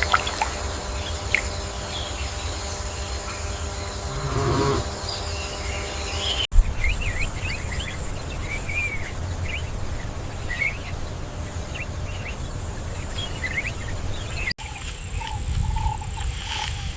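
Wild nature ambience spliced from several clips over a low rumble. First comes a steady insect drone with a brief rising animal call about four seconds in. Then birds chirp repeatedly, and after an abrupt cut near the end a repeated mid-pitched call pulses several times a second.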